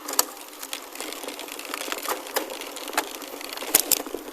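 Gravel bike rolling over a gravel road: a steady crunch of tyres on loose stones with irregular sharp clicks and knocks, two of the strongest close together near the end.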